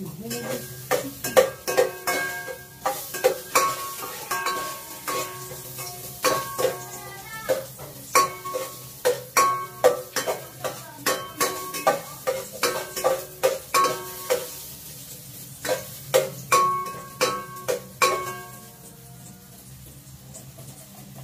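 A metal spatula stirring a sauté in a stainless steel pot, knocking and scraping against the pot about twice a second, each knock ringing briefly, over a light sizzle. The stirring stops a little before the end.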